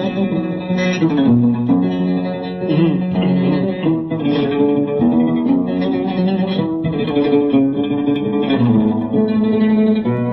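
Oud playing an instrumental passage of Arabic music: a plucked melody over lower held notes.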